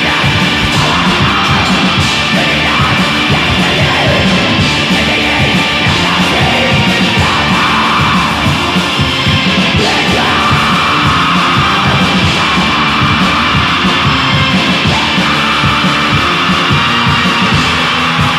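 Black metal recording: a dense wall of distorted guitars over fast, steady drumming, with harsh screamed vocals held over it from about seven seconds in.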